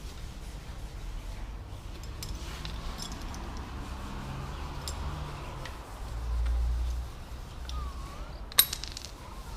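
Scattered light metallic clicks and taps of tools or parts being handled, with one sharp metal clink about eight and a half seconds in.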